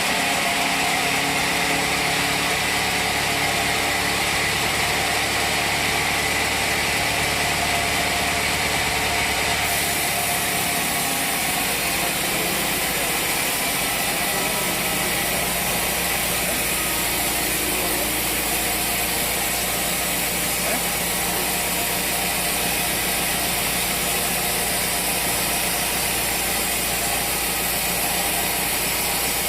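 Sawmill machinery running steadily, a loud engine-driven hum with mechanical rattling. The sound shifts about ten seconds in.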